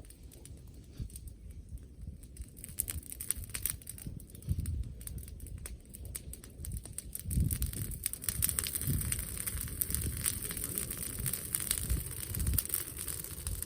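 Bonfire of cut scrub wood crackling with many sharp pops, growing denser about halfway through, over low gusts of wind buffeting the microphone.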